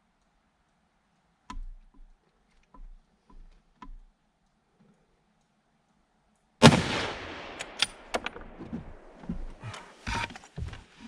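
A few faint separate clicks of the rifle scope's adjustment turret, then about six and a half seconds in a single loud shot from an unsuppressed 6.5x55 Swedish Mauser, fading over about a second. After it comes a run of sharp clicks and knocks as the bolt is worked.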